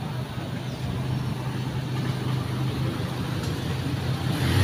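Street traffic: a vehicle engine running with a steady low hum, growing louder near the end as it comes close.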